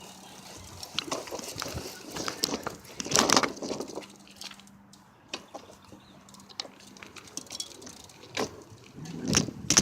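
Bicycle jolting over a bumpy sidewalk: irregular knocks and rattles from the frame and the handheld camera, heaviest about three seconds in and near the end.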